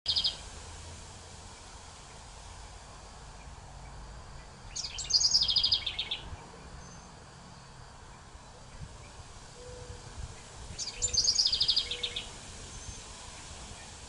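Two quick, rapidly pulsed trilling songbird phrases about six seconds apart, each sliding slightly down in pitch, with a short high note at the start, over steady outdoor background noise.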